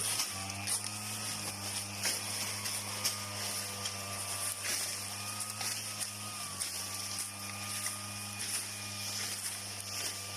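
Small petrol engine running steadily at working speed, with its pitch drifting slightly and scattered sharp ticks over a hiss.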